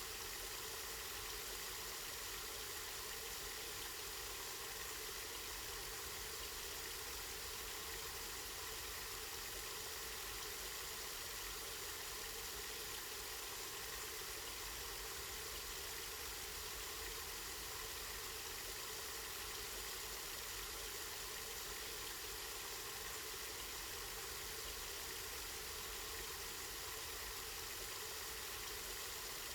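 Water from a spring running and splashing steadily in an even, constant rush.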